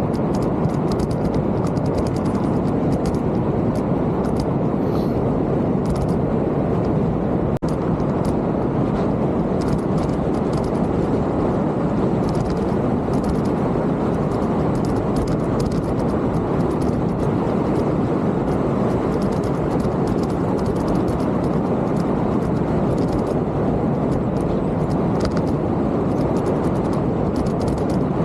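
Steady, loud rumbling noise of riding a mountain bike: wind buffeting the camera's microphone and the tyres rolling over the trail, with faint light clicks and rattles.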